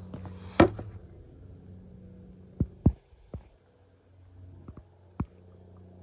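A handful of sharp knocks and thumps, the loudest about half a second in, over a low steady hum that fades away after the first second.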